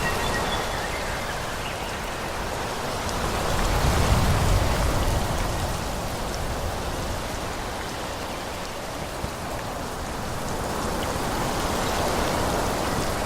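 Wind blowing through forest trees, a steady rustling hiss that swells in a gust about four seconds in and rises again near the end.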